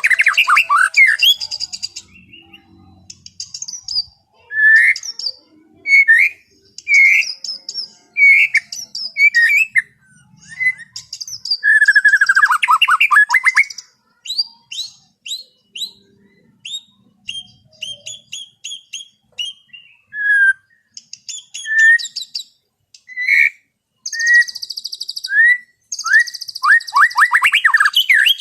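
White-rumped shama (murai batu) singing an unhurried, open song of varied phrases. Clear whistled notes repeat about once a second, with quick downward slurs and bursts of fast buzzy chatter in between.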